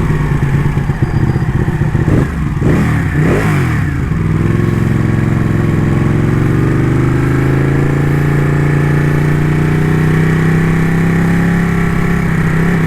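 Ducati motorcycle engine pulling in second gear. The revs waver and dip about two to four seconds in, then climb slowly and steadily as it accelerates.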